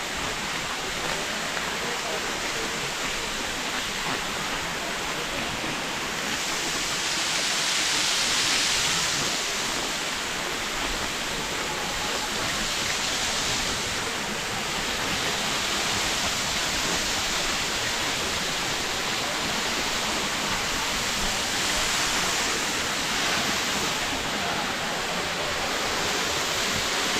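Waterfall rushing: a steady wash of falling water that swells slightly now and then.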